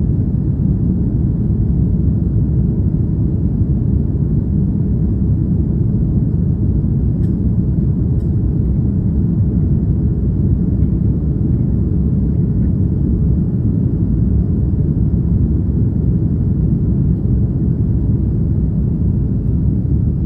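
Airbus A330-300 airliner's jet engines and rushing air during take-off: a steady low rumble.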